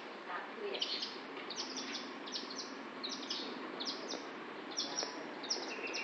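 Small birds chirping: a quick, steady run of short, high chirps that fall in pitch, several a second, over a faint even background hiss.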